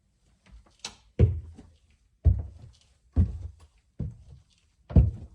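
Heavy footsteps climbing a staircase, a step about once a second, with lighter creaks and knocks between steps.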